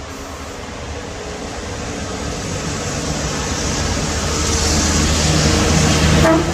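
Class 73 electro-diesel locomotives on a rail head treatment train approaching, their running noise and a hiss growing steadily louder.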